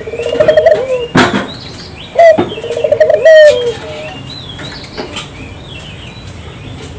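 Puter (ringneck) dove cooing: two long, rolling, pulsing coos, over high chirps of small birds. A sharp knock comes about a second in.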